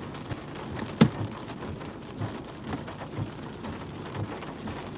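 Heavy monsoon rain pattering on a car, a dense stream of drop impacts with one sharper tap about a second in.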